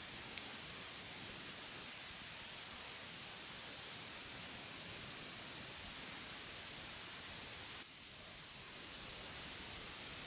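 Steady, even hiss, brightest in the high range, with a slight drop in level about eight seconds in.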